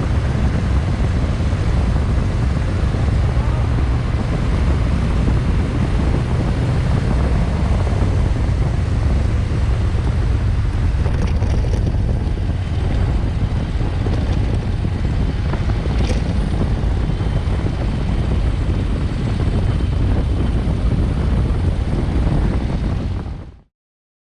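Steady wind rush buffeting the microphone over a constant low rumble, as from travelling at speed; it cuts off abruptly about a second before the end.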